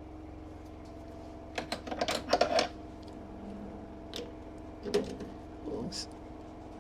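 Machine tool running with a steady hum while metal is being finished. Clusters of short scraping clicks come about a second and a half in and again around five and six seconds in.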